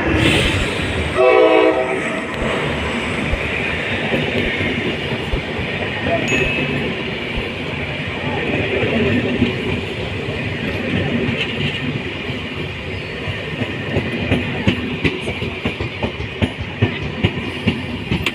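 Passenger train pulling into a station: a short horn blast about a second in, then the steady rumble of the train rolling past, with wheels clicking over rail joints in the last few seconds.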